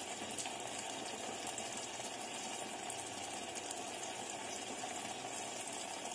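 Onions, garlic and tomato frying in oil in a clay pot, a steady low sizzle with a few faint pops.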